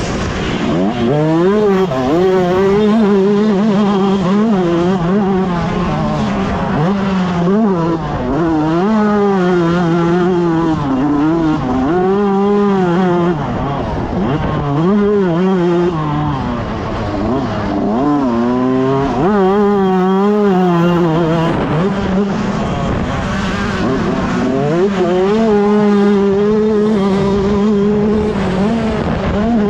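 125cc two-stroke motocross bike engine at race pace, its pitch climbing and dropping again and again as it revs up and backs off.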